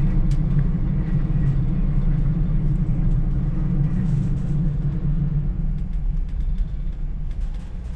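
Steady low rumble of a moving passenger train heard from inside the carriage, easing a little towards the end.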